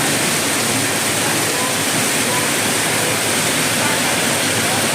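Torrential rain pouring down, a loud, steady, dense hiss with no let-up.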